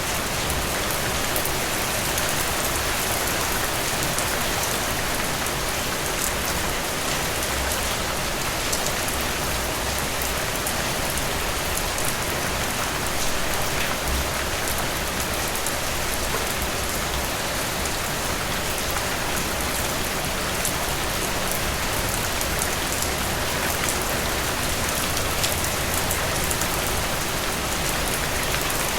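Heavy rain falling steadily, a dense even hiss with many small drop ticks and no break in intensity.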